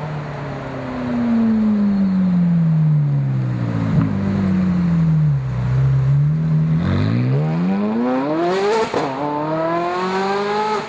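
Ferrari 430 Scuderia's flat-plane V8, running through cat bypass pipes and an X-pipe muffler delete. The revs wind down for about five seconds, then climb hard from about seven seconds in. A quick upshift comes near nine seconds, and the revs climb again.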